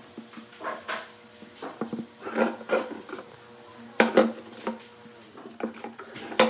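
Wooden pieces being handled and worked by hand: irregular scraping and rubbing with sharp knocks, the loudest about four seconds in and again near the end, over a faint steady hum.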